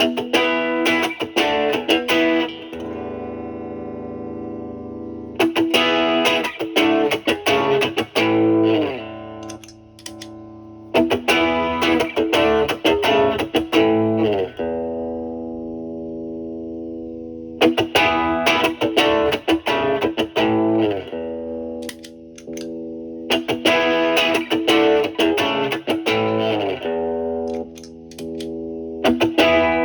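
Electric guitar, a Stratocaster with single-coil pickups, played through a Bluesbreaker-style overdrive pedal into a Marshall Valvestate amp's clean channel, giving a driven, gritty tone. It plays blues-rock chord phrases, with quick bursts of picked and strummed chords and some chords left ringing between phrases.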